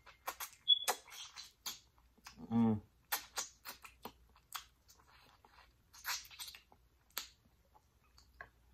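Close-miked eating sounds: wet lip smacks and sticky clicks of chewing while gnawing meat off a sauce-glazed jerk pig tail, with a short voiced hum about two and a half seconds in.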